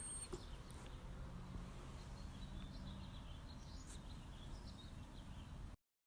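Low background noise with faint, scattered bird chirps. The sound cuts off to dead silence near the end.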